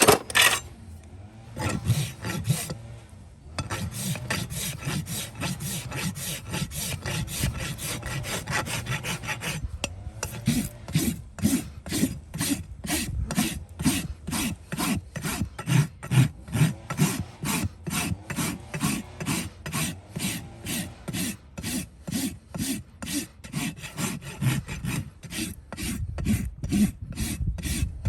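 Farrier's rasp filing a horse's hoof, opening with a sharp knock. The rasping comes in quick, close-set strokes at first, then settles into steady back-and-forth strokes at about two a second.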